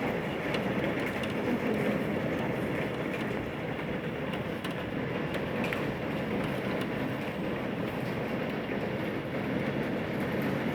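Heavy rain and hail pelting down in a steady, dense rush, with many scattered sharp ticks of hailstones striking.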